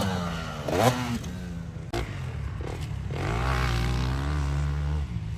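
Motocross dirt bike engines revving out on the track. The pitch rises briefly about a second in, and a steadier stretch of engine sound comes in from about three seconds in.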